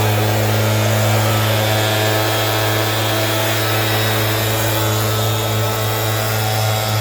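An electric motor, likely a power tool, running steadily at one pitch with no change in load.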